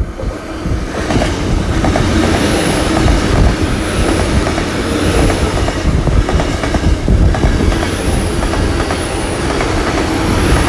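Great Western Railway Class 802 IET passenger train passing, its wheels rumbling and clicking over the rail joints, with a faint high whine that comes and goes.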